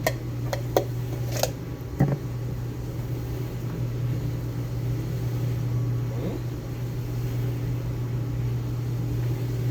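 Steady low hum of a kitchen appliance or fan, with about five sharp clicks of a utensil in the first two seconds.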